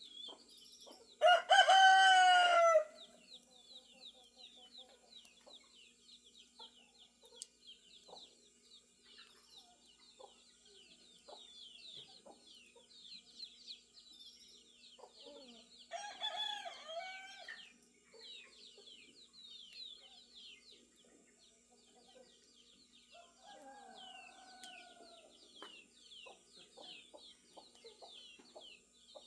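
Roosters crowing: a loud crow about a second in, another near the middle and a fainter one about two-thirds through. Between the crows there is a constant background of small birds chirping.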